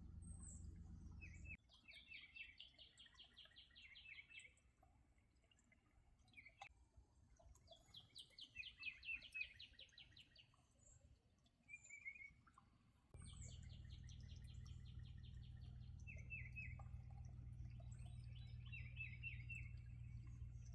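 A songbird singing, faint: a rapid trill of quickly repeated notes that lasts two to three seconds and comes four times, with short chirps between. A low steady hum runs underneath at the start and again from about two-thirds of the way through.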